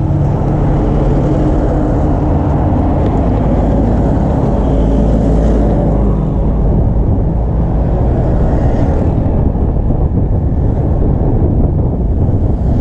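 Steady rumble of street traffic, motor engines running close by.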